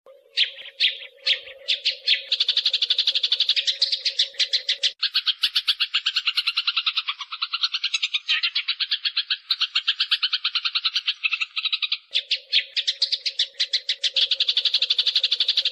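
Eurasian tree sparrows fighting: a fast, dense run of harsh chattering chirps, many a second, beginning with a few separate chirps and quickly packing into unbroken chatter.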